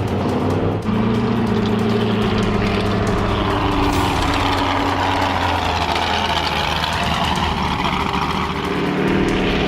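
Trophy truck race engine running, its pitch shifting slowly up and down, with a sudden step up in loudness a little under a second in.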